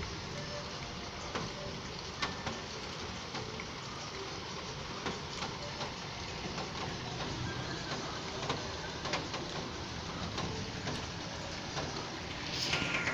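Steady rain falling, with many scattered sharp drops ticking on hard surfaces. Near the end a louder rushing sound with a steady high tone comes in over it.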